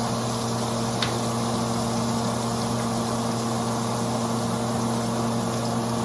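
A steady low machine hum over a constant hiss, with a single faint click about a second in.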